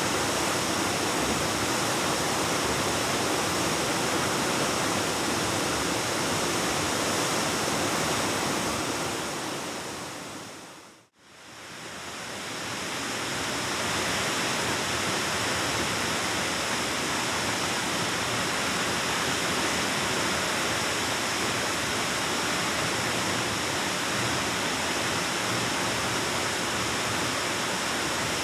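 Waterfall rushing steadily. About eleven seconds in it fades briefly to silence and fades back up, as at a cut between shots.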